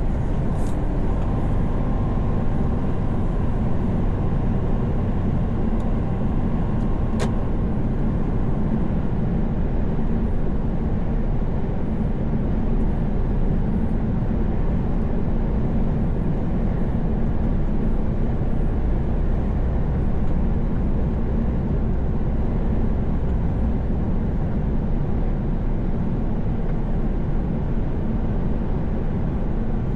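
Truck engine drone and tyre and road noise at a steady cruising speed, with one sharp click about seven seconds in.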